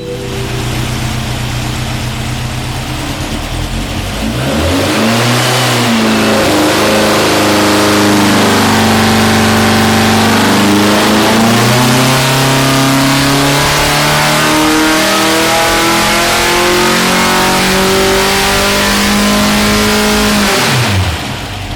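Air-cooled 2005cc VW flat-four with dual 44 IDF Weber carburettors and an A-1 Sidewinder exhaust being run on an engine dyno. It runs steadily, opens up about four seconds in, and then climbs slowly and evenly in revs under load in a dyno pull. Near the end the throttle closes and the revs drop quickly.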